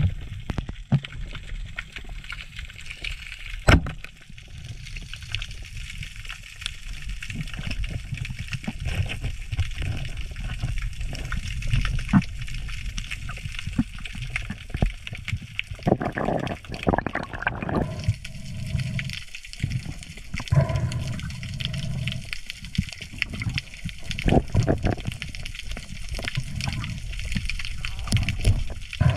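Sea water sloshing and gurgling around the camera, with a steady low rumble and many short crackling clicks.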